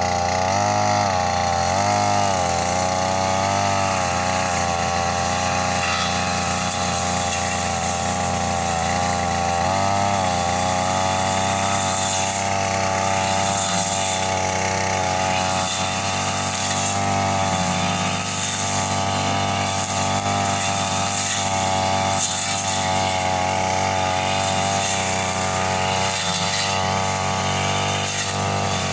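Two-stroke brush cutter engine running at high revs while cutting vegetation. Its pitch dips and recovers several times in the first ten seconds, then holds steadier.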